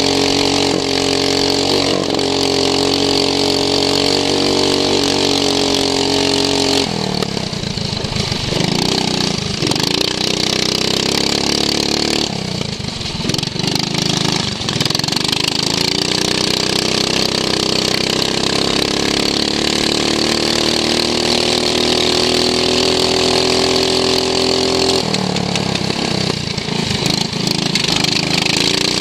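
Racing lawn mower engine heard from onboard, running at high revs. It lets off about a quarter of the way through and again a little before halfway, then climbs steadily in pitch for about ten seconds before dropping off near the end: lifting for corners and accelerating down a straight.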